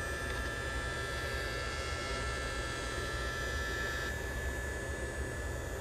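Heat gun running steadily, a blower hum with a thin high whine, heating a phone's back glass to soften the adhesive. The upper hiss thins about four seconds in.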